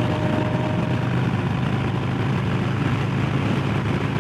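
Harley-Davidson Low Rider S's Milwaukee-Eight 117 V-twin running at a steady cruising speed, with wind rushing over the microphone.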